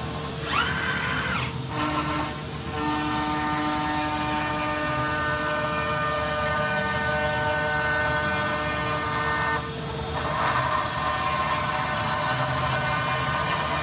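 CNC machine milling: a short whine that rises and falls about half a second in, then a steady high whine with several tones from the spindle and cutter, which gives way to a rougher, noisier cutting sound at about ten seconds.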